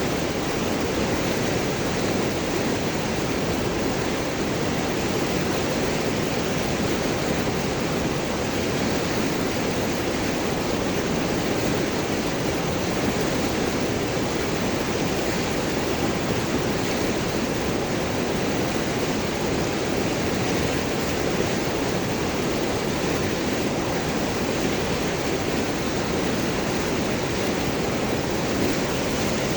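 River water flowing over and around large rocks, a steady, unbroken gurgling.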